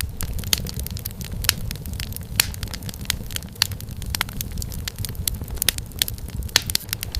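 Wood fire burning in a fireplace, crackling with irregular sharp pops over a low, steady rumble of the flames.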